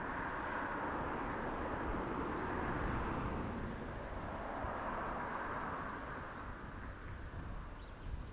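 Distant train running, a steady rumbling wash that fades off over the last couple of seconds, with low wind buffeting the microphone and a few faint bird chirps.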